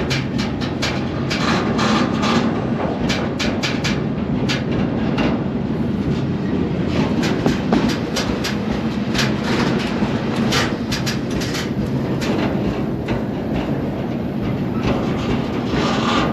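Moving freight train heard from aboard a car: a steady rumble of wheels on rail with many irregular sharp clacks and knocks from the wheels and car couplings.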